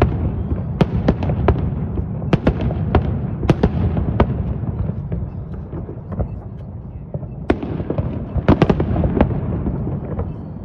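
Aerial fireworks going off: a continuous low rumble of shell bursts with many sharp cracks and bangs, thinning out past the middle, then a tight cluster of cracks near the end.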